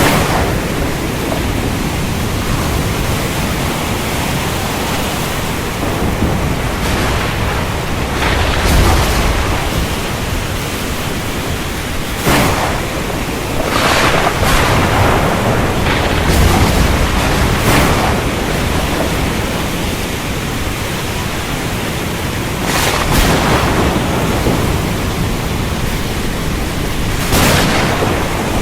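Steady heavy rain in a thunderstorm, with thunder breaking in several times as short sharp cracks and low rolling rumbles.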